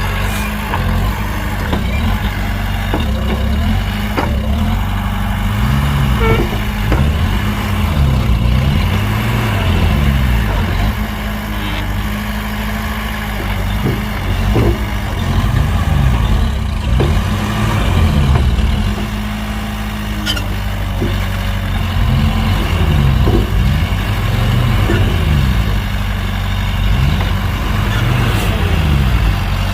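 Heavy diesel engine of earthmoving machinery running under load, its pitch repeatedly rising and falling every second or two as it revs up and down, with scattered clanks and knocks.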